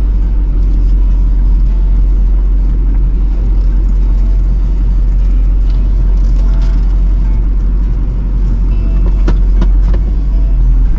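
Diesel pickup truck running while driving slowly, a steady low rumble, with a few sharp clicks about nine to ten seconds in.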